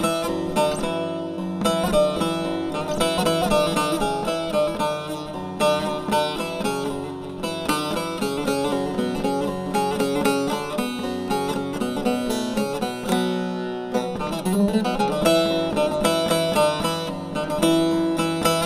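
Instrumental Turkish folk music (türkü) played on plucked string instruments, with no singing.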